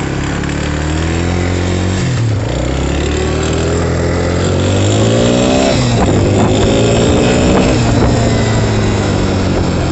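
Suzuki LT-Z250 quad's single-cylinder four-stroke engine under way. It rises in pitch as it accelerates and drops back sharply three times, at about two, five and a half and seven and a half seconds, as it shifts up through the gears. It runs cleanly and pulls responsively on its freshly rebuilt Mikuni carburetor.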